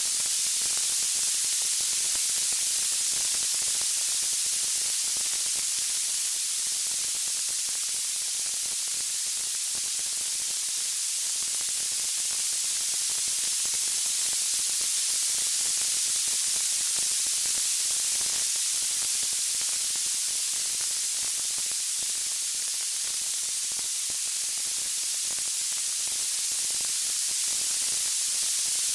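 Steady, even hiss weighted toward the high end, like white noise, with no distinct crackles standing out: a sleep-noise track billed as a wood fire.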